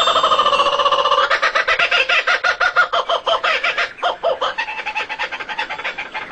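Birds calling in a fast chattering run of short pitched notes, about ten a second, with a brief break about four seconds in.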